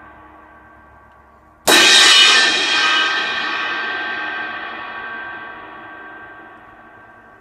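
Repaired 18-inch Zildjian K Dark Medium Thin crash cymbal struck once, about one and a half seconds in, then ringing out and fading slowly over several seconds. Before the hit, the tail of an earlier strike is dying away.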